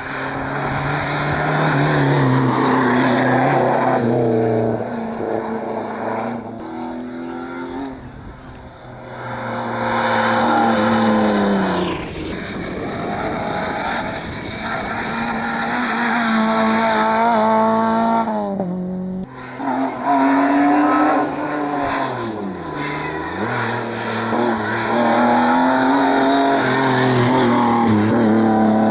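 Rally cars driven hard on the stage, engines revving up and dropping back at each gear change, with some tyre squeal. Several passes are edited together, with abrupt cuts twice near the middle.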